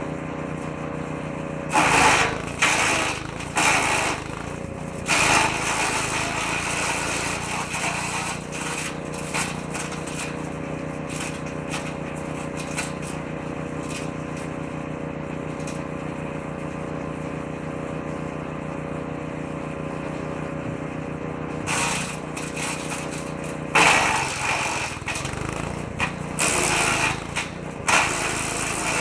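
Petrol-engined woodchipper-shredder running steadily, with loud bursts of chipping as branches are fed into the shredder drum a bit at a time: several bursts a couple of seconds in, and another run of them over the last seven seconds.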